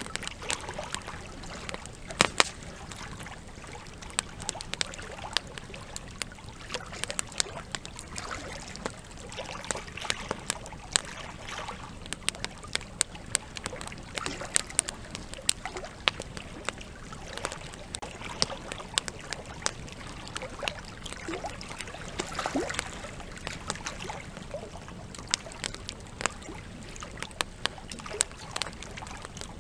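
Wood campfire crackling, with frequent sharp pops and snaps at irregular intervals, over the steady rush of a flowing river.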